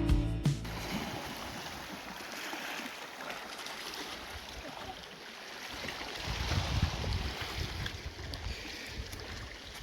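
Sea water washing and lapping, with low rumbling wind on the microphone that swells about six seconds in.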